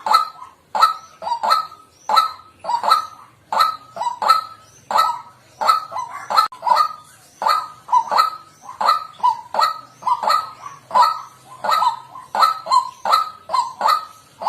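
White-breasted waterhen calling: a steady run of loud, short croaking notes, about two a second, some in quick pairs.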